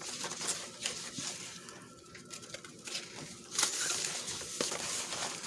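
Paper scraps rustling and crinkling as they are handled and shifted around, with small taps. The rustle gets louder a little past halfway.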